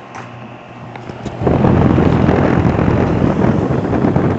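Bryant two-stage central air conditioner's outdoor unit running on its low stage with a steady hum. About a second and a half in, a loud rough rush of air buffets the microphone and covers the hum.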